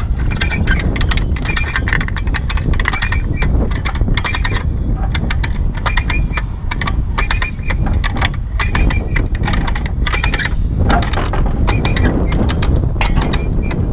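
Metallic clicking and clanking from hand work on the engine removal, a few sharp clicks a second at uneven intervals, over a steady low rumble.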